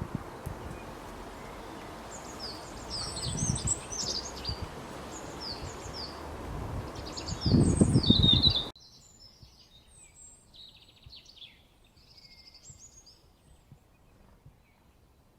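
Small songbirds chirping in many short, quick high notes over bursts of low rumbling noise. The noise cuts off abruptly about nine seconds in, leaving fainter chirps.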